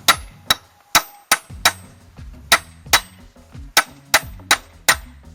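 Hammer blows on a 27 mm socket used as a drift, driving a new ball bearing into a motorcycle front hub: about a dozen sharp metallic clanks, two to three a second, each ringing briefly. The new bearing is a tight fit.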